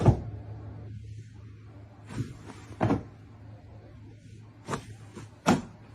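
A series of sharp knocks, five in all, the loudest right at the start and another about five and a half seconds in, over a steady low hum.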